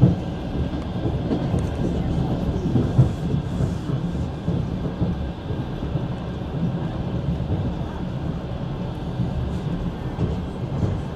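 Steady low rumble of a passenger train carriage in motion, heard from inside the carriage as the wheels run along the rails.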